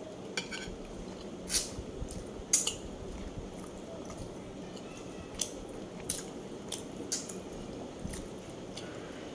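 Eating utensils clinking against a plate during a meal: a scattering of sharp, separate clinks, the loudest about two and a half seconds in, with soft wet eating sounds between them.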